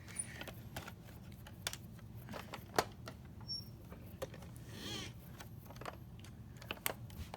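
Scattered light clicks and taps of small toy cars being handled, irregular and a second or so apart, with a brief faint voice-like sound about five seconds in.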